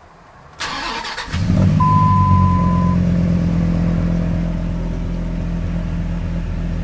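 Dodge Ram SRT-10's 8.3-litre Viper V10 being started: a brief crank of the starter, then the engine catches at about a second in and flares up loud before settling into a steady idle. A steady electronic beep sounds for about a second shortly after it fires.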